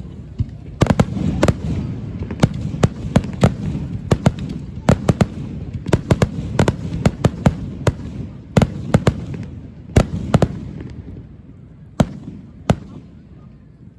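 Aerial fireworks display bursting in a rapid barrage of sharp bangs and crackles over a low rolling rumble. The bursts thin out near the end, with a couple of last single bangs as the rumble dies away.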